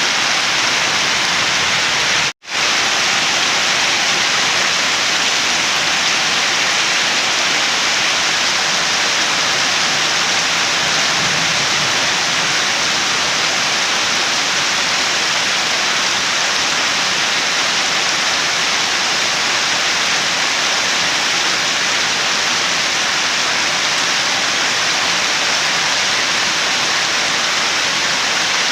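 Steady heavy rain falling, an even rushing hiss, with a brief complete drop-out about two seconds in.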